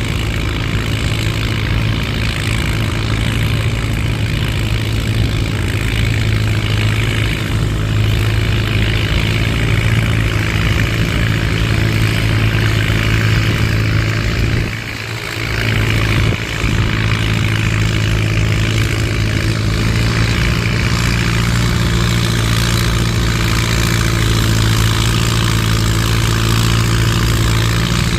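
Antique farm tractor's engine running steadily under load as it pulls the weight sled down the track, with a brief drop in level about halfway through.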